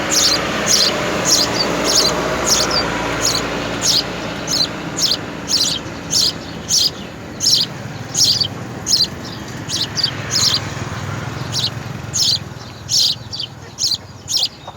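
Nestling birds chirping over and over: short, high chirps about two a second, the begging calls of hungry young birds. A steady low background noise runs underneath.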